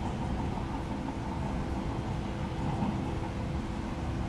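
381 series electric train running slowly over the station's curved track: a steady low rumble with a faint steady hum above it.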